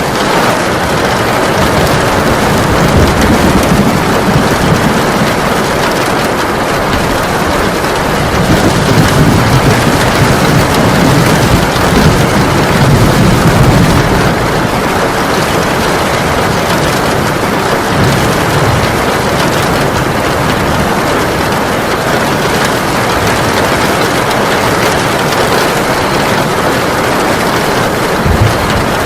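Heavy rain pouring steadily, with low rolling thunder rumbling and swelling several times, longest and loudest in the middle stretch.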